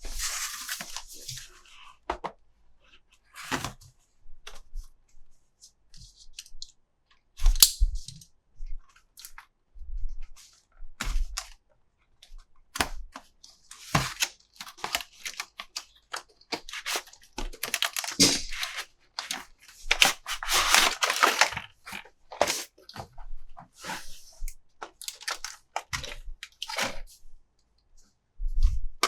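Plastic toy packaging and plastic toy parts being handled: scattered clicks and taps, broken by short bursts of crinkling at the start and a few times in the second half.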